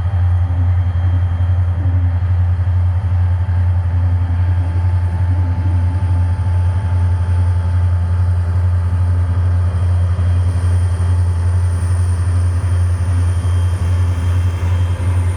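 EMD SD40-2 diesel-electric locomotives running with a loud, steady, deep rumble from their two-stroke V16 diesel engines.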